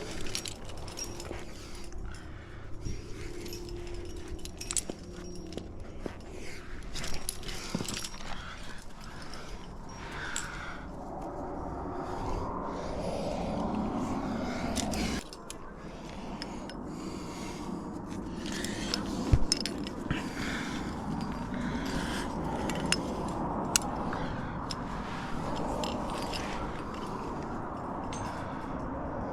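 Climbing gear clinking and scraping against rock as a climber moves up a trad route, many small irregular clicks over a rustling background.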